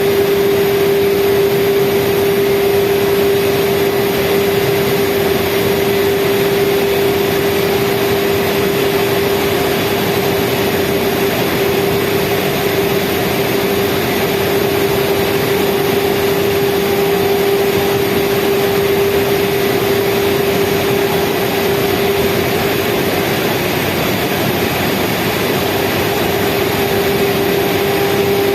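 Speedboat engine running steadily at speed, a constant loud hum over rushing noise.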